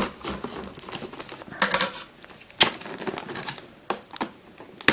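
Stiff plastic packaging being cut open, with irregular crackles and sharp clicks and a couple of louder snaps. The plastic is tough and hard to cut through.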